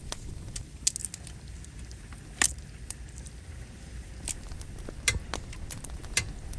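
Wood fire burning with a low steady rumble and scattered sharp crackles and pops of burning firewood, the loudest about a second in, midway and near the end.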